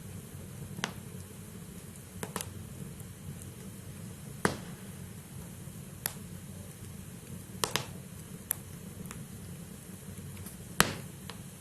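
Wood fire burning in a fireplace: a steady low rumble under sharp crackles and pops of the burning logs, about a dozen in all at irregular intervals, the loudest snaps about four and a half seconds in and near the end.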